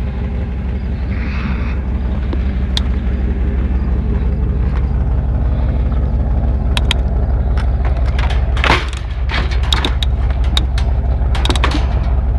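A vehicle engine running steadily with a low hum, with scattered rattles and knocks; one clunk about two-thirds of the way through is the loudest.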